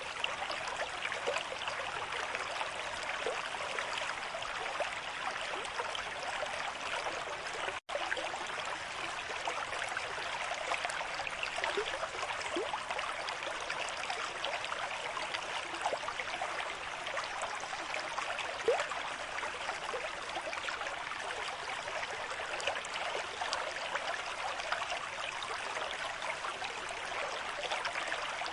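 River stream flowing at a moderate rate: a steady rush of water with small bubbles and gurgles. The sound cuts out for an instant about eight seconds in.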